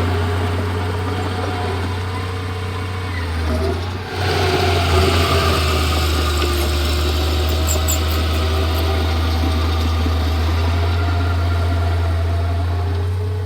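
Komatsu D31P bulldozer's diesel engine running steadily. About four seconds in it dips briefly, then picks up and runs harder.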